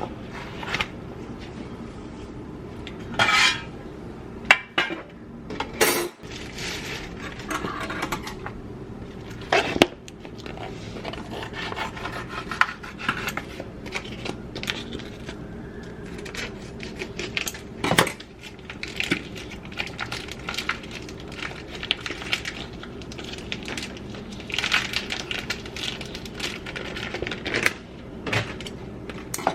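Kitchen clatter of utensils and dishes: scattered clinks, knocks and scraping, with a few louder knocks, over a steady low hum.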